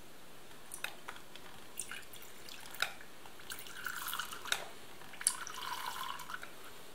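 Apple juice squeezed from its small package, dripping and trickling out in two short runs, with scattered faint clicks of handling.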